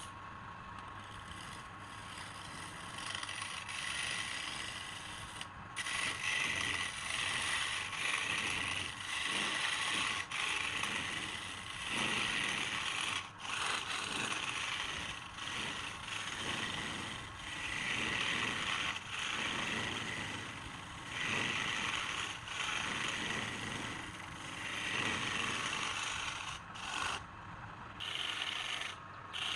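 Wood being worked on a running lathe: a tool scraping the spinning piece in repeated passes, with brief breaks every second and a half to two seconds, over a faint steady whine. The scraping grows louder about six seconds in.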